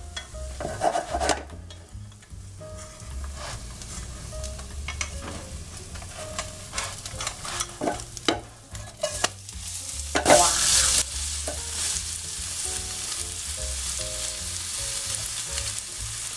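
Okonomiyaki frying in an oiled nonstick pan, with chopsticks clicking and scraping against the pancake and pan. About ten seconds in, the pancake is flipped onto its pork-belly side; the sizzle surges loudly and then runs on stronger and steady.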